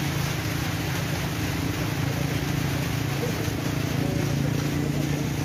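Steady hiss of heavy rain falling, over a steady low hum.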